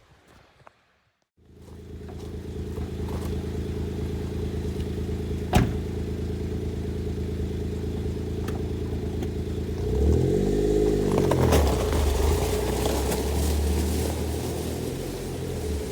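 Suzuki Jimny JB23W's small three-cylinder engine idling steadily, with a single sharp click partway through. About ten seconds in it revs up and back down, then runs on with a deeper, steadier note.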